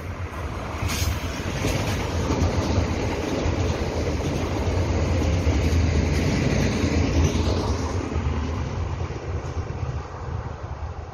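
ITX-Saemaeul electric multiple-unit train running past on curved track: the rumble of its wheels on the rails builds as it approaches, is loudest about halfway through, and fades as it moves away.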